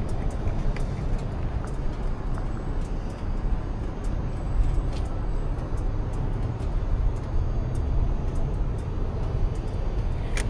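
Aprilia Tuono 660 motorcycle on the move: a steady low rumble of engine and wind buffeting on the rider's microphone, with a few faint clicks.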